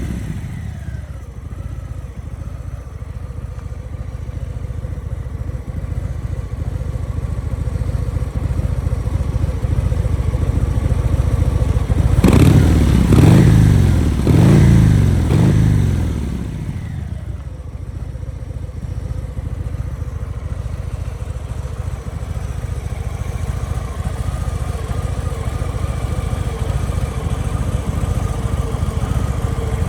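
2023 Harley-Davidson FXLRS Milwaukee-Eight 117 V-twin, breathing through a Black Parade M8 aftermarket exhaust by Over Racing, idling. About halfway through there is a quick series of throttle blips, each rev rising and falling, before it settles back to idle.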